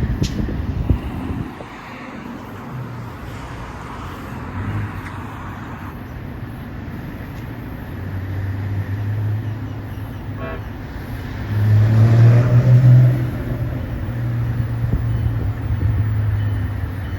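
Train approaching on the Northeast Corridor tracks: a low drone that swells and fades several times, loudest about twelve seconds in.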